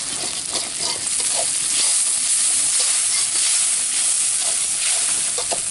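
Chillies, shallots and tomato sizzling steadily in a hot wok, with a slotted metal spatula stirring and scraping against the pan.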